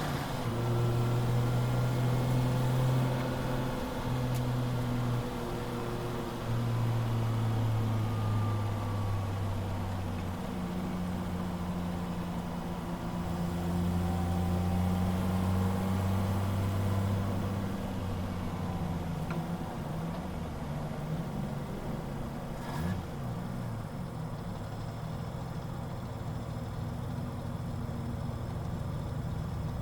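Toyota JZX-series straight-six engine running at varying revs, its note stepping up and down as the throttle changes; the engine is misfiring.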